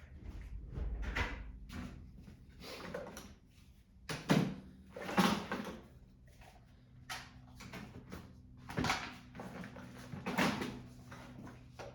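Hand tools and metal engine parts knocking and clinking during the disassembly of a Kohler small engine: a string of sharp knocks, the loudest about four, five, nine and ten seconds in. A steady low hum runs underneath.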